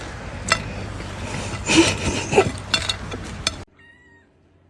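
A domestic cat meowing, two short meows about two seconds in, with a few light clicks; the sound then drops away to very quiet.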